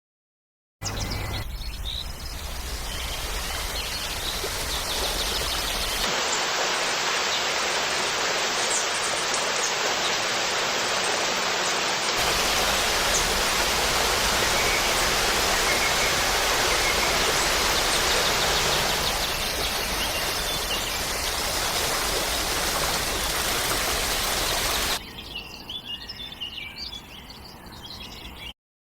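Rushing water, a steady even hiss over several joined stretches. Near the end it gives way to quieter outdoor sound with birds chirping.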